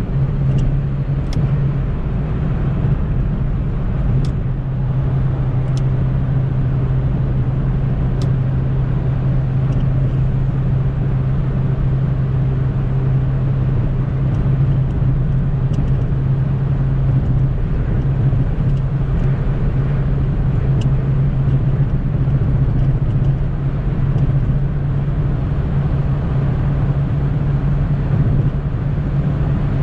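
Opel Corsa B 1.4i's four-cylinder petrol engine running at steady high revs, a constant low drone over heavy road and wind noise, with a few faint clicks.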